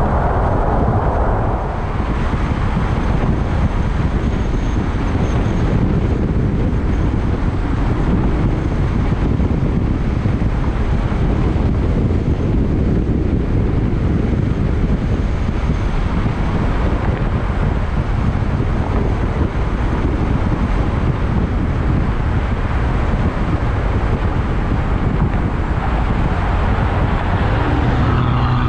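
Ferrari F12 Berlinetta's 6.3-litre V12 running at cruising speed, heard from a body-mounted microphone under heavy wind and road noise. Near the end a clearer, rising engine note comes through.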